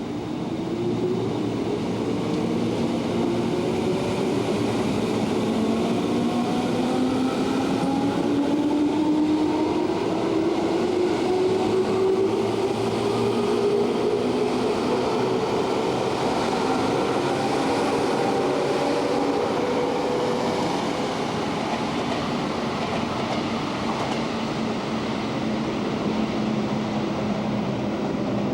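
Electric commuter train accelerating, its traction motors giving a rising whine of several tones together that climbs for about twenty seconds and then levels off.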